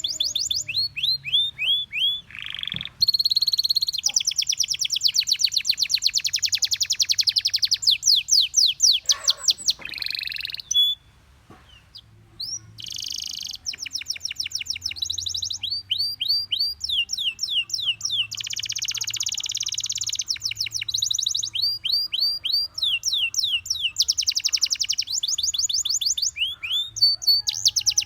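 Gloster canary singing long trills of rapidly repeated sweeping notes, pausing for about a second and a half near the middle before starting again.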